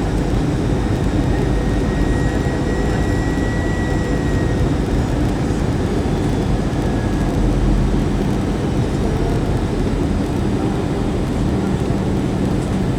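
Steady rumble and rush of an Airbus A321's engines and airflow heard inside the passenger cabin, with no sudden changes.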